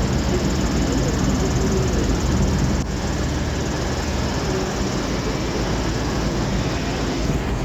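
Steady low rumble of train engines in a large railway station, with a constant low hum; the level drops slightly about three seconds in.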